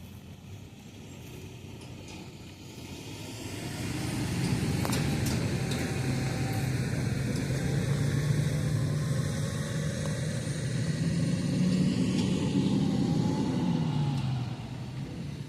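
A large vehicle engine at a corn silage harvest grows louder about three or four seconds in and runs steadily. Near the end its pitch and level drop away.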